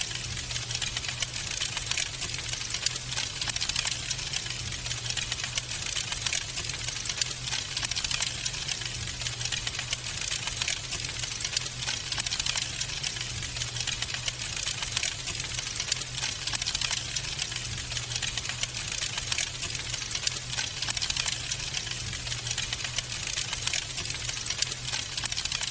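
Wood fire crackling in a fireplace: a dense, steady patter of small crackles with a few louder pops, over a faint low hum.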